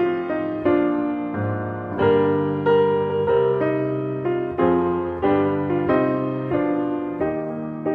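Slow, gentle piano music: single notes and chords struck about once or twice a second, each left to ring and fade.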